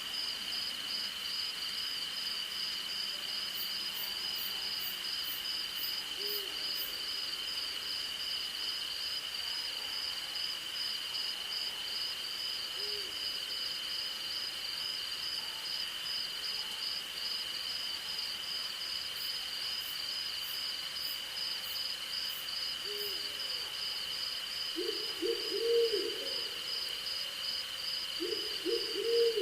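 A steady night chorus of crickets and other insects, one continuous high trill and one rapidly pulsing, with an owl hooting over it. Single hoots come several seconds apart, then quick runs of hoots near the end, the loudest sounds.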